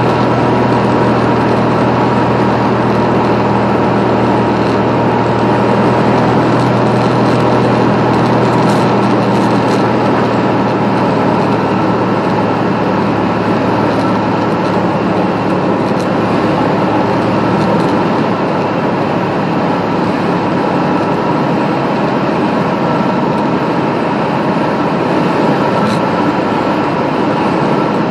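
Piper Comanche 250's six-cylinder Lycoming engine and propeller running steadily, heard inside the cockpit as a loud, even drone.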